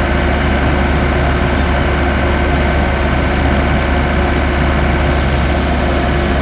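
Heavy construction machinery at a bored-pile drilling site running steadily, a constant low engine hum with no change in speed.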